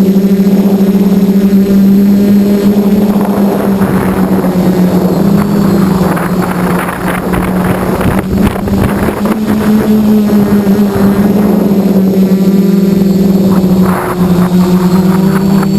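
QAV540G quadcopter's electric motors and propellers buzzing with a steady drone whose pitch wavers slightly as the throttle changes. A rushing noise mixes in from about three to ten seconds in.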